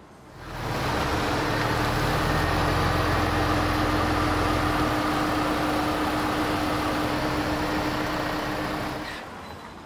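A car engine running with a steady hum over a low rumble and wide rushing noise. It comes in sharply about half a second in and cuts off suddenly about nine seconds in.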